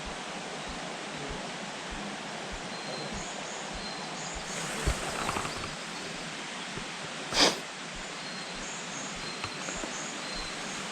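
Forest ambience: a steady background hiss with faint, distant high bird chirps repeating throughout. A short rustle comes about five seconds in, and a single sharp click about seven and a half seconds in.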